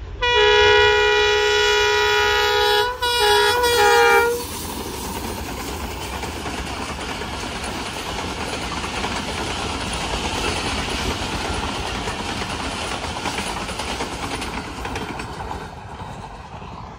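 A ZCU-20 diesel-electric locomotive's horn sounds one long blast of several tones, then a few short toots. After that comes the steady rumble and clatter of the express train running through the station at speed, fading near the end.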